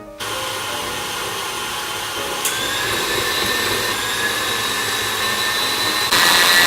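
Electric kitchen mixer switched on, running steadily with a motor whine as it creams butter and sugar with vanilla for cookie dough, then stepping up to a higher, louder speed about six seconds in.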